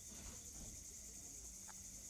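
Faint, steady high-pitched chirring of insects, likely crickets.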